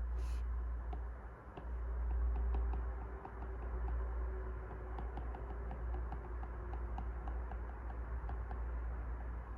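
A run of light, quick clicks, about four a second, over a steady low rumble.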